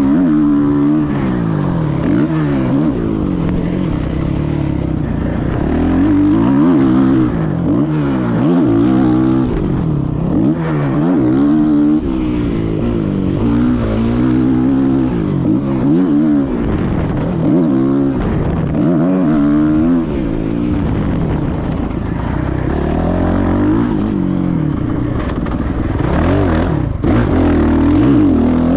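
Motocross bike engine heard from the rider's chest, revving up and dropping back over and over as the throttle is worked through the track's sections, the pitch rising and falling every second or two. It dips briefly near the end.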